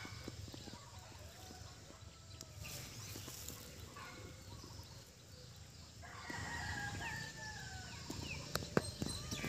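Bird calls: one long call, lasting about two seconds and starting about six seconds in, among short, high, falling chirps.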